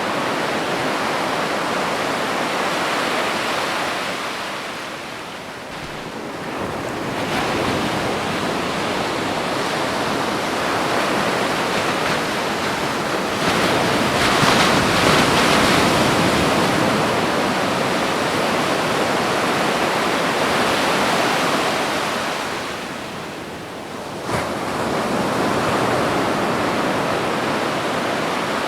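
Ocean surf washing onto a beach in a steady loud rush, swelling as each wave breaks and easing off twice between sets, with the biggest wave breaking about halfway through.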